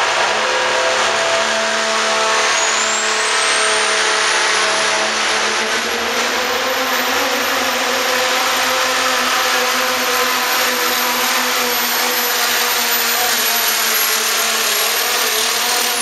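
Pro stock diesel pulling truck running hard under load, its engine droning steadily. A high turbo whine rises over the first few seconds and holds, then falls away suddenly right at the end.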